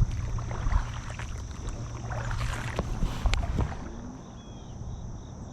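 Small knocks and clicks of handling on a kayak, over a steady low rumble of water and wind.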